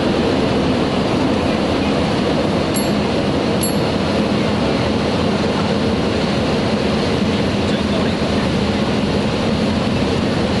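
Steady loud rumble of Concorde's engines and rushing airflow heard inside the cockpit during the takeoff, unchanging throughout, with two faint high ticks about three seconds in.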